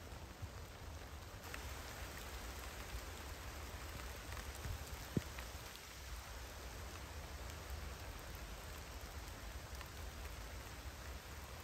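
Steady light rain falling on the leaves and forest floor, an even patter with scattered drops, and one sharp tap about five seconds in.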